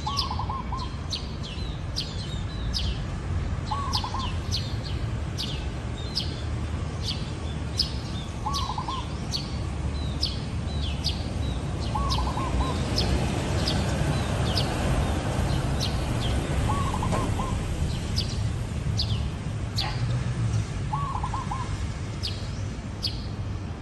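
Zebra dove cooing: short rapid trilled coos, six phrases about four seconds apart. Other small birds chirp high and quick throughout, over a steady low background rumble.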